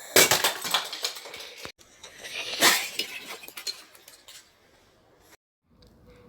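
Plastic Lego bricks clattering and scattering, as in a Lego plane model crashing and breaking apart. There are two bursts of rattling pieces: the first stops abruptly a little under two seconds in, and the second starts loudly and dies away about two seconds later.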